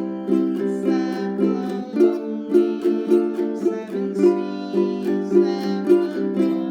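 Ukulele strummed in a steady shuffle rhythm, moving between chords.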